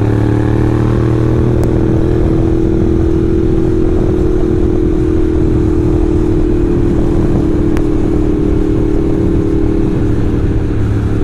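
Ducati motorcycle's V-twin engine running steadily under way at cruising speed, its pitch easing down slightly near the end, with rushing wind noise.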